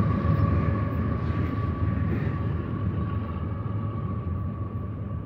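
Diesel locomotives of a BNSF freight train rumbling away into the distance, with a steady whine above the rumble, fading gradually.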